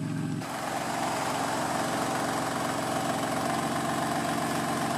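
BMW M4 Competition's S55 twin-turbo inline-six idling through an exhaust with the secondary catalytic converter core removed. About half a second in, the deep low part of the exhaust note drops away as the exhaust valves close, and the idle goes on steady and quieter.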